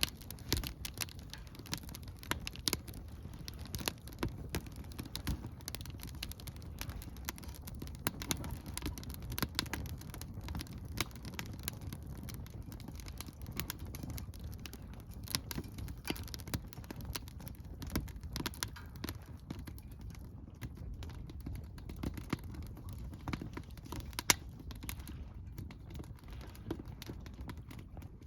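Wood fire crackling in a Solo Stove fire pit: irregular sharp pops and snaps over a steady low rumble, with one louder pop about 24 seconds in.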